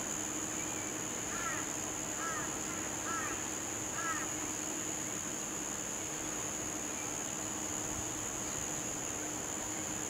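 A bird calls four times, about a second apart, over a steady high hiss of insects and open-air background noise.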